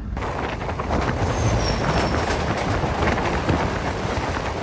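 Passenger train running at speed, heard loud through an open doorway as another train rushes past alongside. The wheels clatter over rail joints, with a short high wheel squeal about a second and a half in.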